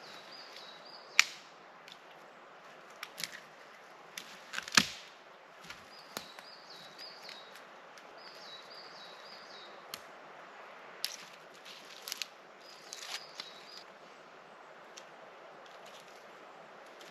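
A few sharp knocks and clicks, the loudest about one second and five seconds in, with a small bird calling in short runs of quick high notes several times.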